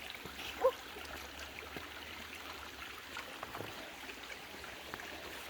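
Forest creek running high over rocks: a steady, even rush of flowing water.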